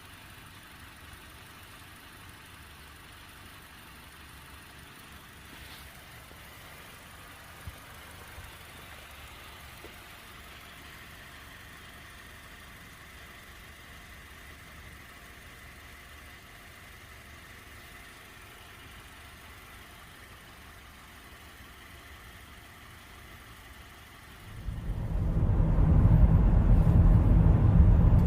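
Honda minivan engine idling quietly and steadily. Near the end a much louder low rumble comes in suddenly.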